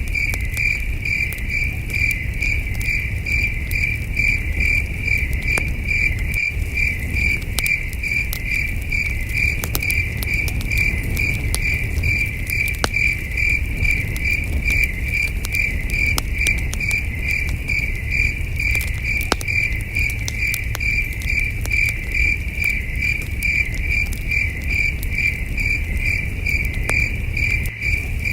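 Crickets chirping in a steady, even pulse, with the crackle and snaps of a campfire and a low rumble underneath.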